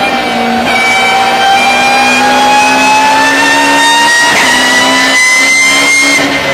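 BMW E36 race car with a straight-cut 7-speed gearbox under hard acceleration: the engine note climbs steadily for about six seconds, then drops sharply at an upshift near the end.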